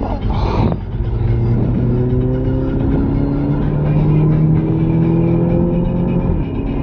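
Audi TT's engine under hard acceleration, heard from inside the cabin over road and wind noise: the engine note climbs steadily for about five seconds in one gear, then falls near the end.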